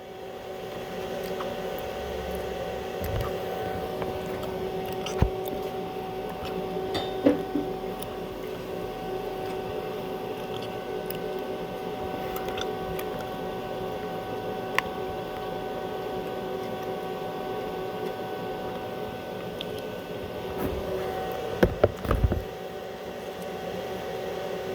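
Steady machine hum with a few sharp clicks and knocks as a stick electrode is worked into the electrode holder, with a cluster of knocks near the end.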